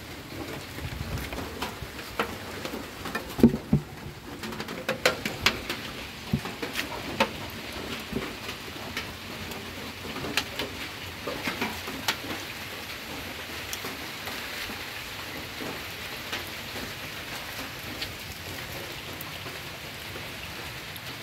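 Steady rain falling, with irregular sharp drips and knocks through the first half, the loudest about three and a half seconds in.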